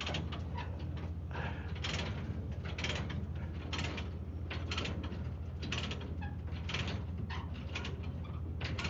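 A ratchet tie-down being cranked to tighten a load, a rasping ratchet stroke about once a second, over a steady low hum.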